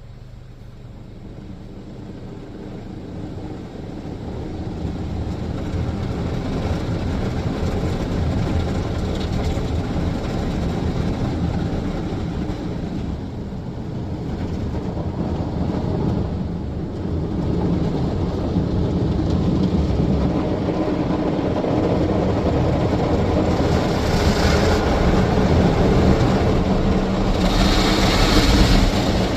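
WashTec SoftCare 2 Pro touchless car wash gantry spraying the car, heard from inside the car as a low rumble and hiss of water that grows steadily louder as the gantry moves closer, with brighter surges of spray near the end.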